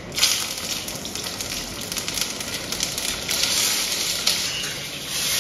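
Long green chili peppers dropped into hot oil in a wok, sizzling sharply from the moment they go in and crackling on as a spatula turns them.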